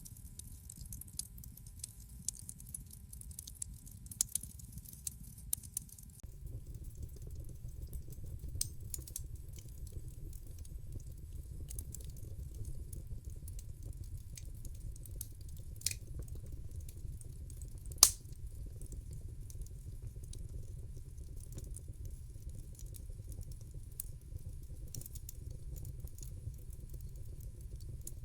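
Wood fire burning in a fireplace: a steady low rumble of the flames with scattered sharp crackles and pops, busiest in the first few seconds, and one loud pop about 18 seconds in.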